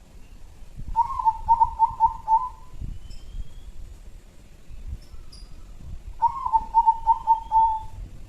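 Zebra dove (perkutut) cooing: two phrases about five seconds apart, each a quick run of about six notes, the last note drawn out.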